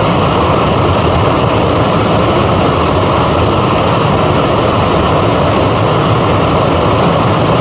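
A small waterfall: steady rush of falling water, loud and even.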